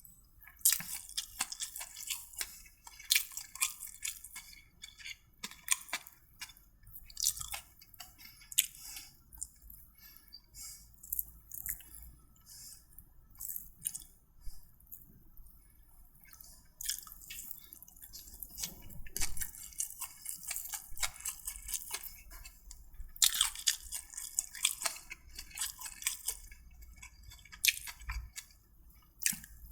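A person eating close to the microphone: irregular wet mouth smacks and chewing clicks, coming in clusters and thinning out for a while in the middle.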